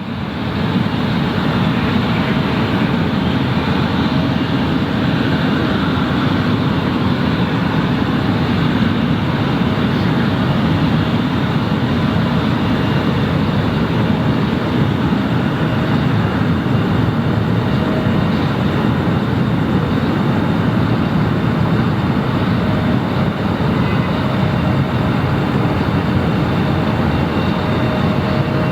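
Airliner jet engines running steadily: a dense low rumble with a faint high whine, holding the same level throughout.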